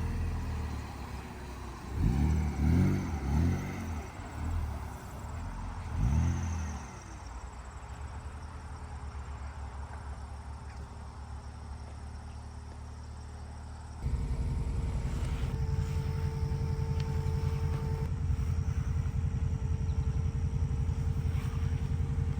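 BMW E46's engine blipped in several short revs, then settling into a steady idle. About two-thirds of the way through it jumps abruptly to a louder, closer-sounding idle.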